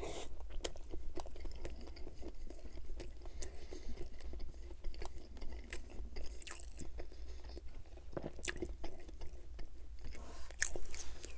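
Close-miked eating of a Burger King Whopper Jr.: a bite into the sesame bun at the start, then steady chewing full of small wet mouth clicks and crunches.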